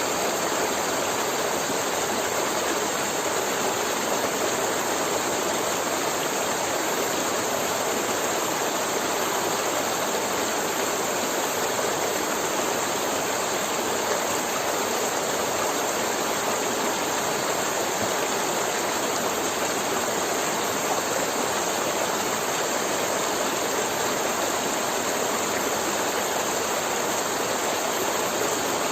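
River water flowing steadily over rocks, a continuous rushing and gurgling with no breaks.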